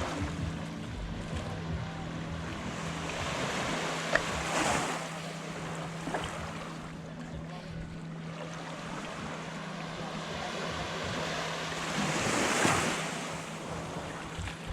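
Small waves washing up onto a sandy beach, with two louder surges, one about four seconds in and one near the end. A steady low hum runs underneath.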